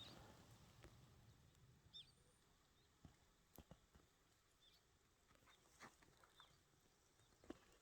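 Near silence: a few faint, high, short chirps, as of small birds, and scattered soft clicks.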